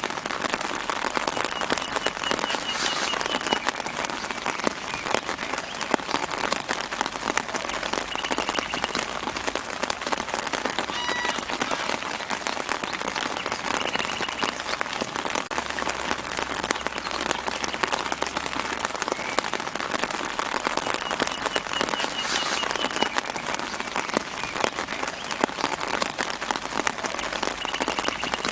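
Steady light rain pattering on leaves, a dense hiss of many small drops. A bird in the background gives a short high trill every several seconds.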